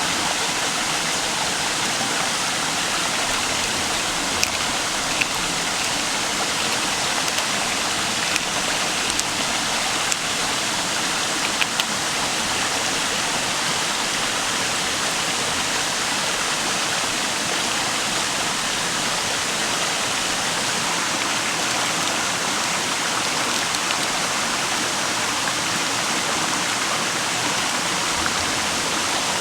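River water running steadily, an even rushing, with a few light clicks in the first dozen seconds.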